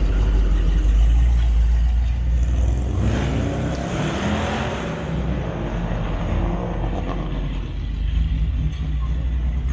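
A Chevy truck's engine running as it rolls past close by, a low rumble that swells to its loudest about three to five seconds in and then eases off.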